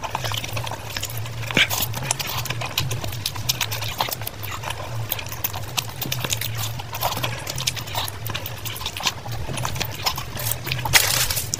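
Close-miked eating of fried rice by hand: wet chewing, lip smacks and rapid mouth clicks. A louder smacking bite comes near the end as a fresh handful goes into the mouth.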